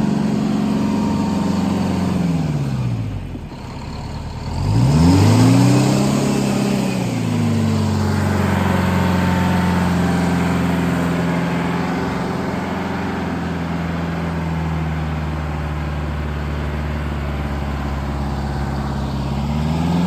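Diesel front-end loader engine running. It slows about two seconds in, revs back up sharply around five seconds and settles to a steady run, then revs briefly again near the end.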